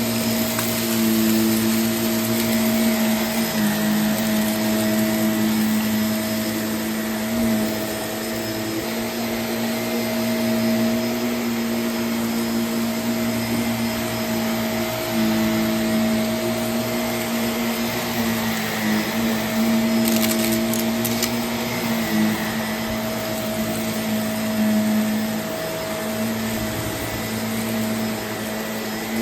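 Vacuum cleaner running steadily: an even motor hum with a constant whine, its loudness rising and falling a little. A few faint high ticks come about two-thirds of the way through.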